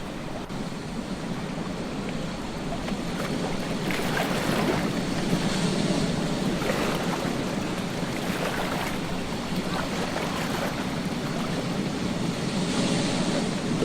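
Ocean surf washing onto a beach: a continuous rush of breaking waves that swells louder about four seconds in and again near the end.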